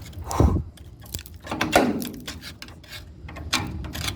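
Scattered metallic clicks and knocks of hand tools working on a bolt, with two short falling grunts.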